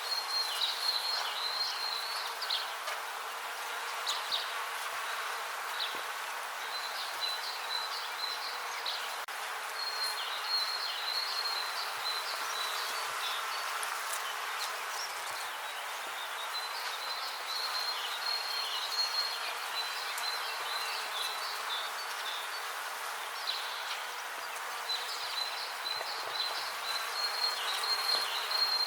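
Honeybees buzzing steadily in a continuous hum. A high, rapid chirping phrase repeats every few seconds over the hum.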